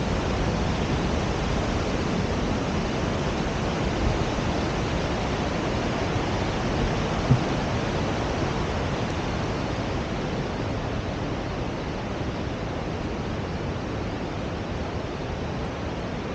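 Steady rushing of white water from a river or waterfall, an even roar that eases slightly toward the end.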